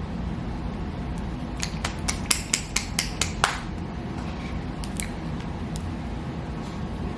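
Face serum packaging being handled and opened: a quick run of about eight sharp clicks, about four a second, ending in the loudest one, then a few faint ticks, over a steady low hum.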